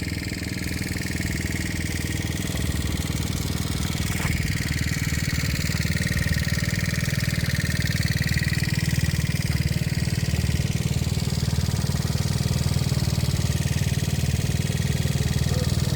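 Small motorbike engine running steadily, growing a little louder after about three seconds and then holding steady.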